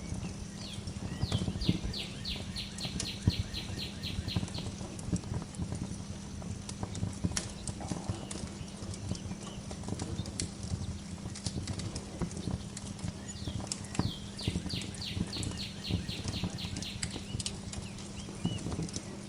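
Wood fire crackling and popping steadily in a fireplace. A songbird sings a trill of rapid, downward-sweeping notes, about four a second, twice: about a second in and again about fourteen seconds in.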